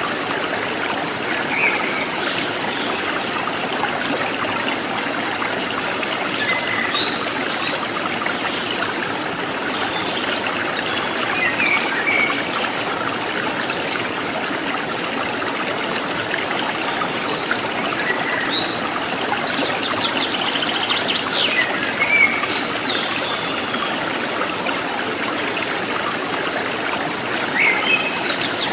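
Forest stream trickling steadily over stones, with short bird chirps scattered over it and a brief rapid trill about two-thirds of the way in.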